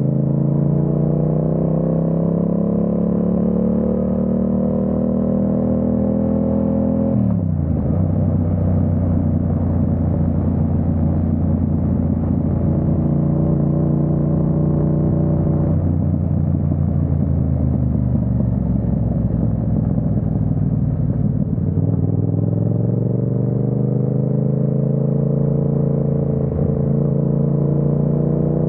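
Yamaha MT-07's parallel-twin engine under way. Its pitch climbs for about seven seconds and drops sharply at an upshift, then holds steady. It sags a little past the middle and rises again with the throttle near the end.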